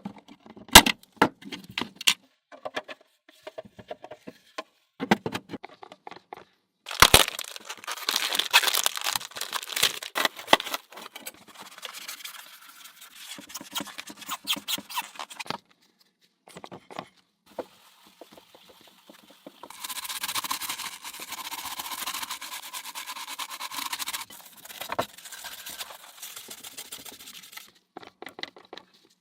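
Hand-work sounds on an old television set under restoration: scattered clicks and knocks of parts and tools being handled, rough scraping from about seven seconds in, and a steadier rasping, rubbing stretch lasting about four seconds near the twenty-second mark.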